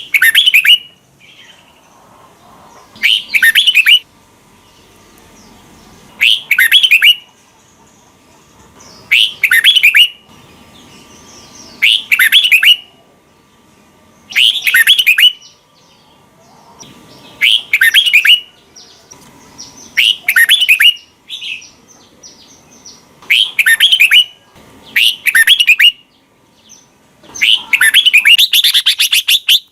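Red-whiskered bulbul singing: about ten short, bright phrases repeated roughly every three seconds, the last one a little longer.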